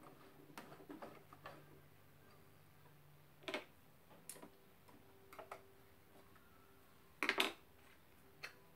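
Scattered small clicks and knocks of a sewing machine being set up by hand, with two louder clacks about three and a half and seven seconds in.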